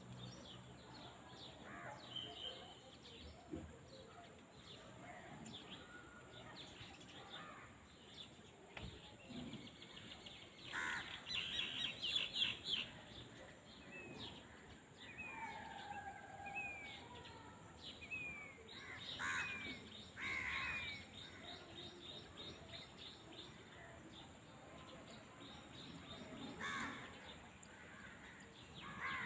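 Several birds calling over a faint rural field ambience: a loud burst of rapid chattering calls about a third of the way in, then a series of short, downward-slurred chirps.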